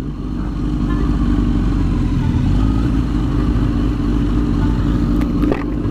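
Motorcycle engine running at a steady, even pitch, with no revving.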